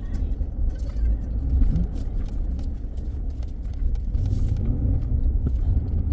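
Truck engine and road noise heard from inside the cab, a steady low rumble.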